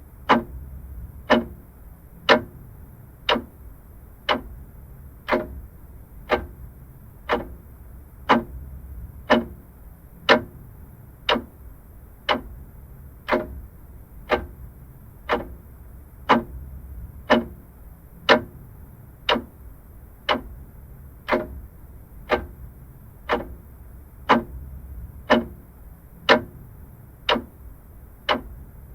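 Vintage mechanical clock ticking steadily, about one sharp tick a second, over a faint low hum.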